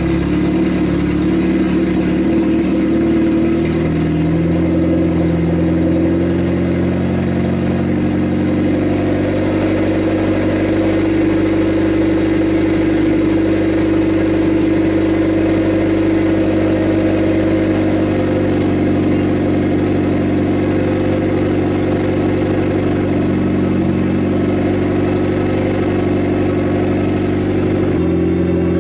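Turbocharged Nissan SR20DE four-cylinder engine idling. Its idle wavers over the first few seconds, then settles steady.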